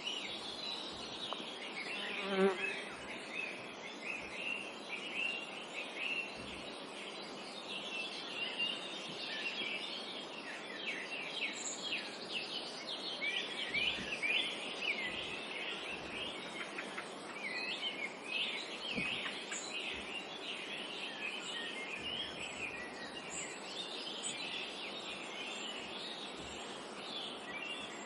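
Many small birds chirping and twittering at once in a continuous forest chorus, over a faint steady background hiss, with one short lower-pitched call about two seconds in.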